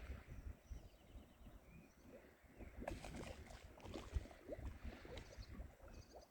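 Faint, scattered bird chirps, including a short run of quick chirps near the end, over a low uneven rumble with scattered knocks.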